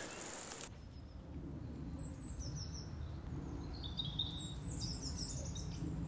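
Small birds chirping in short, high, falling notes from about two seconds in, over a steady low rumble.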